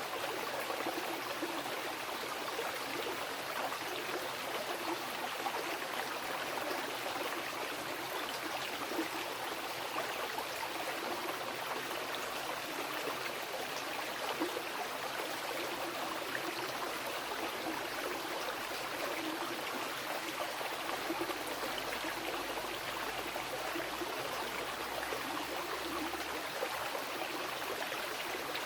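Mountain river rushing and splashing over rocks, a steady, even flow.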